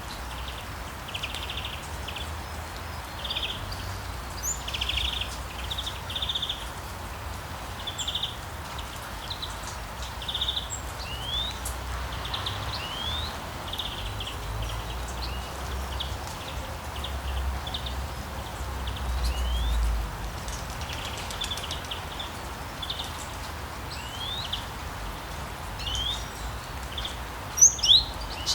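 Steady rain hiss with songbirds chirping over it: short trills and quick rising whistles repeated many times, two louder calls near the end. A faint low rumble comes and goes underneath.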